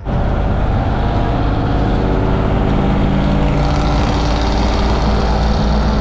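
LS V8 engine in a 1968 GMC Suburban running through its new Black Widow dual exhaust: a steady, deep exhaust drone.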